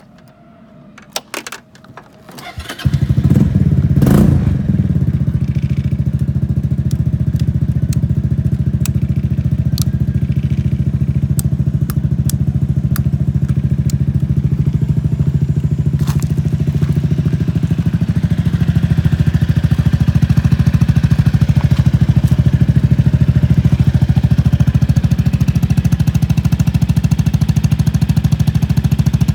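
Honda Fusion scooter's single-cylinder engine starting: a few clicks, then the engine catches about three seconds in and settles into a steady idle.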